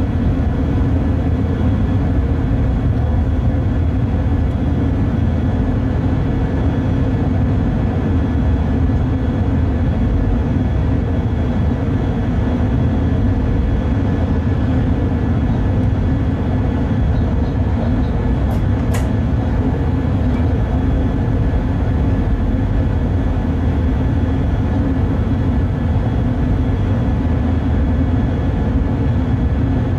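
Inside the cab of a Bombardier Traxx BR 186 electric locomotive under way: a steady low rumble of running gear and traction equipment with a faint steady hum, and one brief sharp click about two-thirds of the way through.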